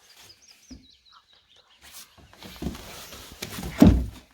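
A bird sings a short high warbling phrase that falls in pitch, followed by rustling and a heavy thump about four seconds in.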